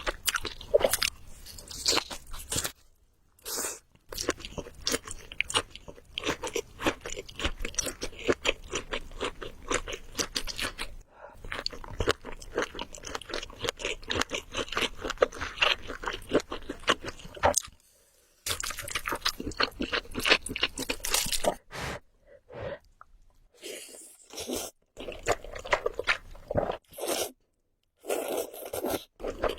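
Close-miked eating: chewing and crunching with dense runs of quick, wet clicks, stopping dead in several short silent gaps.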